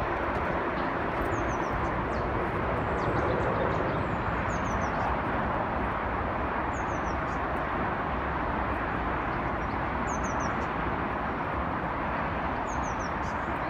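Steady rushing outdoor background noise, with a small bird repeatedly giving a short high call of a few quick falling notes, about every two to three seconds.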